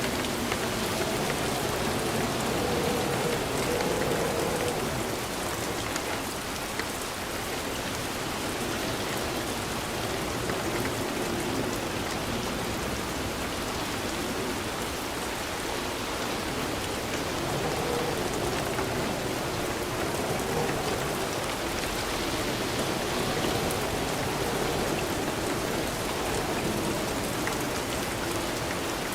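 Steady rainfall, an even hiss of drops on a surface with no thunder.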